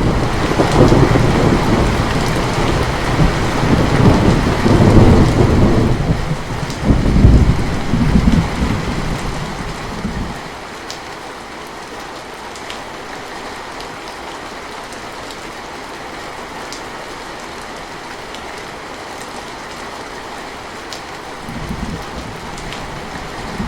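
Steady rain falling, with a long peal of thunder that rumbles and swells for about the first ten seconds, then dies away to rain alone. A shorter, fainter rumble of thunder comes near the end.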